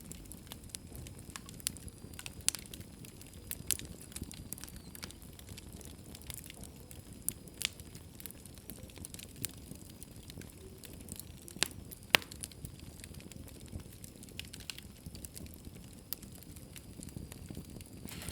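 Wood fire burning in a fireplace: a steady low rumble of flames with scattered sharp pops and crackles, the loudest snap about twelve seconds in.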